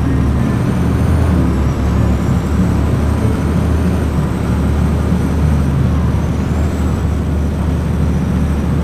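Blue Bird bus running steadily, a continuous low engine drone under road noise.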